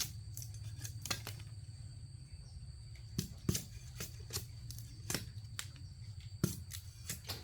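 Irregular sharp clicks and snaps, about a dozen, the loudest about three and a half and six and a half seconds in, over a steady low rumble and a steady high thin tone.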